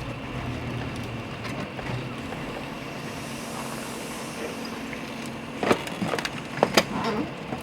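Steady hum of vehicle engines and road traffic, with several sharp knocks or clicks about six to seven seconds in.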